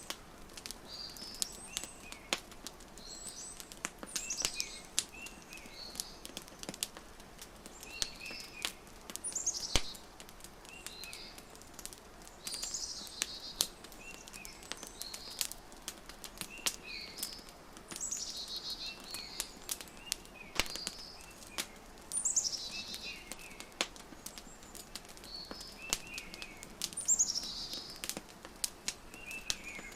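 Wood fire crackling with frequent sharp, irregular pops and snaps, mixed with songbirds chirping. Short bird phrases recur every couple of seconds, some of them quick high notes sliding downward.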